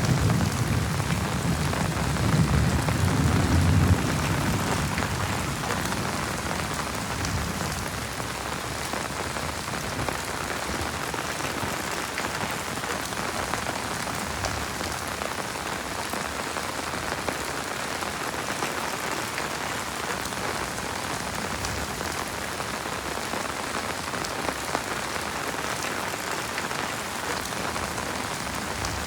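Heavy rain falling steadily, an even hiss of drops. A low rumble under the rain in the first few seconds fades away about four to six seconds in.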